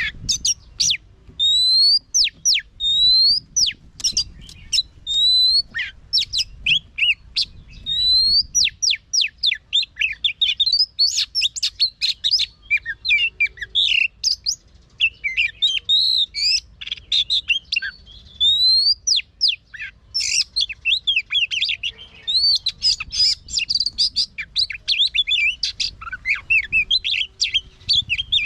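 Oriental magpie-robin singing a long, varied song. Clear rising whistles repeat over the first few seconds, then come fast runs of sharp, jumbled notes.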